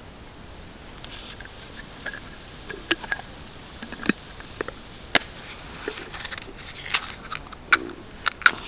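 A string of irregular sharp clicks and small snaps, over a dozen, with light rustling between them. The loudest click comes a little past the middle.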